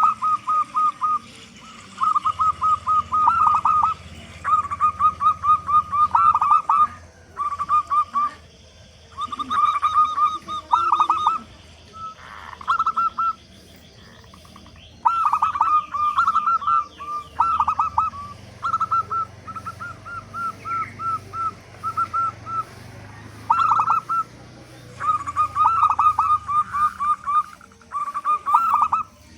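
Zebra dove cooing: bouts of quick, staccato coo notes, each run lasting a second or two, repeated again and again with short pauses between.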